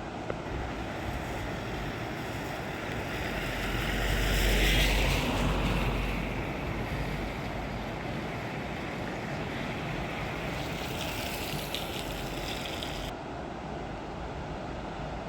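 Swollen, fast-flowing Chenab river rushing in flood, a steady noise of water with wind on the microphone. A louder swell peaks about five seconds in.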